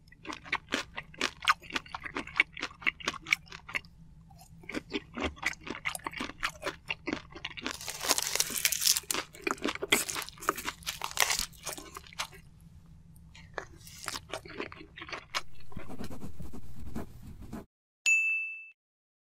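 Close-miked eating sounds from soy-sauce marinated shrimp and rice: rapid wet, clicking chews and sucking, with a dense noisy stretch in the middle. A steady hiss runs for about two seconds near the end and cuts off suddenly, followed by a short bright chime.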